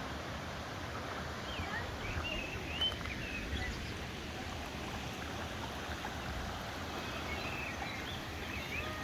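Mountain stream running steadily over rocks, with small birds chirping in short bursts about two seconds in and again near the end.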